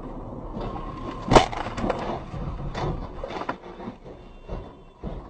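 A vehicle collision: one sharp, loud impact about a second and a half in, followed by a couple of seconds of crunching and scraping, then a few smaller knocks near the end.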